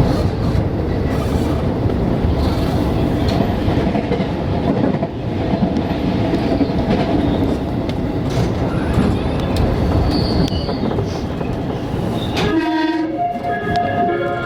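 Running noise of a JR West 207 series electric train heard from inside the car, then about 12.5 seconds in the set S10's music horn starts its melody in short stepped notes. The horn sounds off-key, the set's known out-of-tune music horn.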